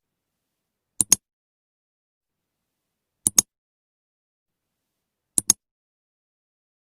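Three sharp double clicks, each pair a quick click followed by a slightly louder one, spaced about two seconds apart against dead silence. They sound like edited-in click sound effects.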